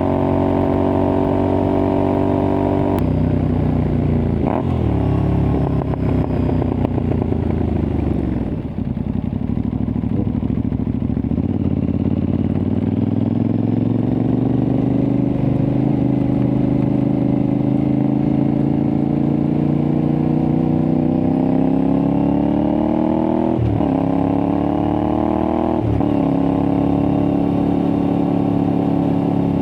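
Aprilia Tuareg 660's parallel-twin engine through a replica Akrapovic exhaust. The revs fall with a couple of sharp pops as the throttle closes. The engine then pulls up in a long rising note, with two quick upshifts near the end.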